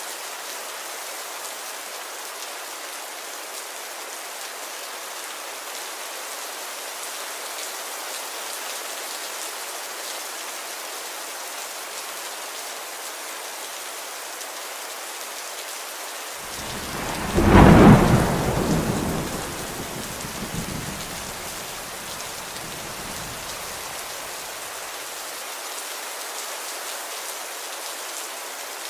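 Steady rain, with a loud clap of thunder a little past halfway that rumbles away over several seconds.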